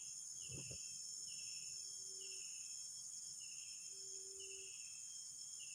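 Faint steady insect drone, with a short falling note repeating about once a second and a low note held about half a second, three times about two seconds apart: an unidentified animal call in an oil palm plantation that sounds like a person crying.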